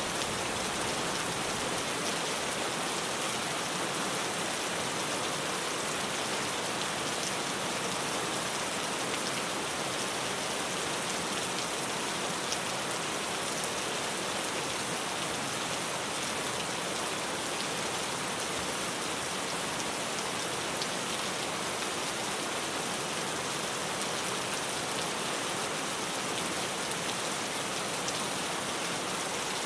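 Rain falling steadily on a tin roof, an even patter with no let-up.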